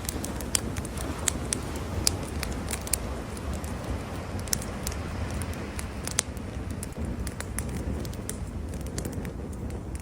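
Wood campfire crackling, with sharp irregular pops and snaps, over a steady low rumble of surf.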